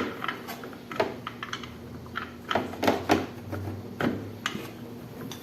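Irregular clicks and knocks of metal tools on the window AC's blower hub as its reverse-threaded nut is tightened.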